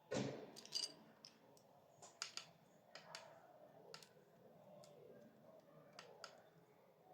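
A sharp knock right at the start, then scattered light clicks and taps, a few a second at most, of small hard parts being handled.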